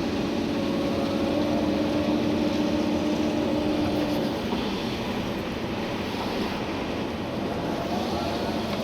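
Komatsu PC290-11 excavator's diesel engine and hydraulics running under work, heard from inside the cab. A steady whine holds through the first half and fades out about four seconds in, leaving a rougher, noisier running sound.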